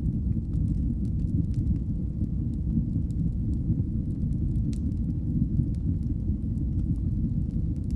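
Crackling fireplace fire: a steady low rumble of burning with scattered sharp crackles and pops.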